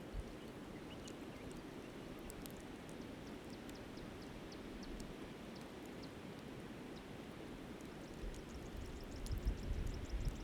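Steady rush of a flowing river, with scattered faint high crackles from a campfire burned down to coals. From about eight seconds in, wind buffets the microphone in growing low gusts.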